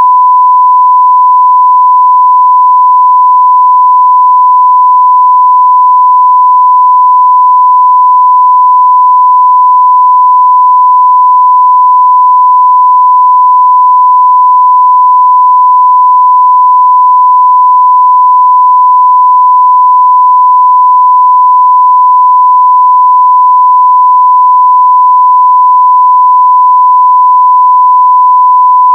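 Continuous 1 kHz sine-wave test tone at full level, a single steady pitch with no change.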